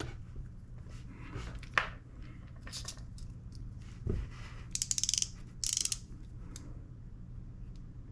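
Small hard objects being handled and rummaged through on a workbench: scattered clicks, a knock about four seconds in, then two short clattering rattles around five and six seconds in, over a faint steady low hum.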